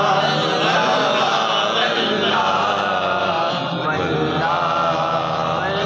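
Voices chanting an Urdu naat (devotional verse in praise of the Prophet), with long drawn-out notes whose pitch wavers and bends.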